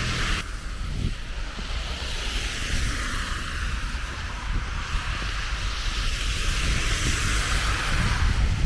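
Wind rumbling and buffeting on the microphone over a steady hiss of street traffic in a snowstorm.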